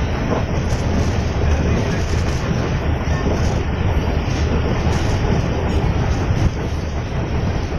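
Passenger train running at speed, heard from inside a coach: a steady, unbroken rumble of wheels on the rails, strongest in the low end.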